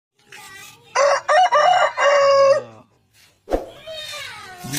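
A rooster crowing once, a loud call of about a second and a half that starts about a second in. A fainter fowl call follows near the end.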